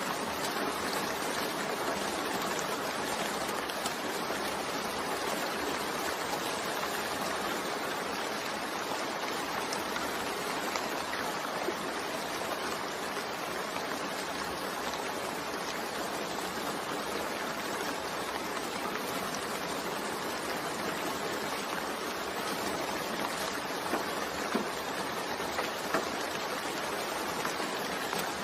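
Steady rain falling, an even hiss of many drops, with a few sharper drip taps near the end.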